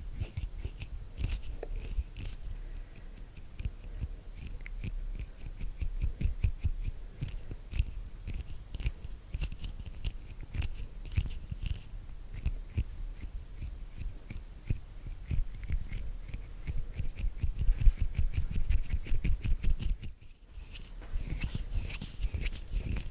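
Close-miked ASMR hand sounds: skin on skin rubbing and fluttering, making a quick, dense run of soft crackles and taps, with a brief pause near the end.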